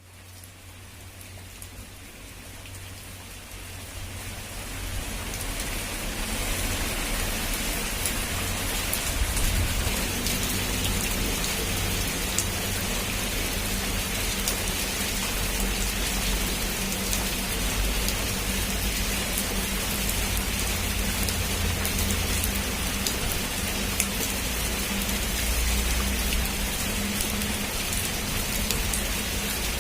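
Heavy rain falling on a rooftop. It fades in over the first several seconds, then holds steady, with individual drops ticking sharply over a dense hiss and a low rumble underneath.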